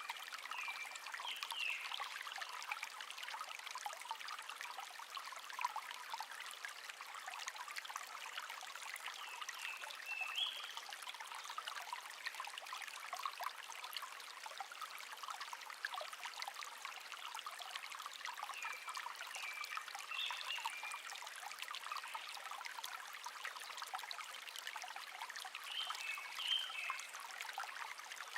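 Small stream trickling and babbling steadily, with a songbird giving short chirped phrases every several seconds.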